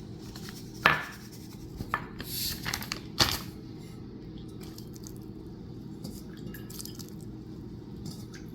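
Hard kitchenware clinking: two sharp knocks, about a second in and about three seconds in, with a few lighter taps between them. After that only a steady low hum remains.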